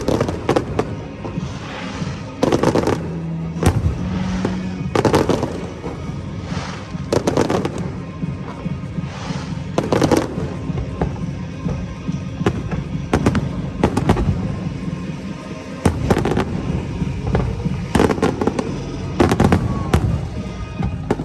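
Aerial fireworks shells bursting, a sharp bang every second or two, each followed by a rumbling echo, over music playing underneath.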